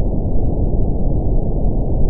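Steady, deep brown noise: an even hiss weighted to the low end, with nothing above about 1 kHz.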